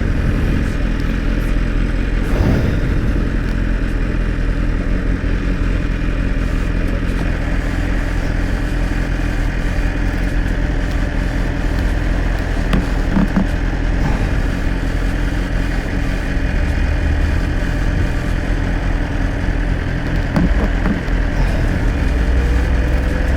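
BMW S1000 RR's inline-four engine running at a steady pace under way, with steady wind and road noise around it. The engine's low note firms up a little near the end.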